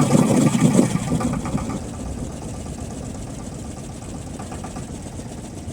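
Boat engine running steadily at low revs, heard from aboard; it drops to a lower steady level after the first second or so.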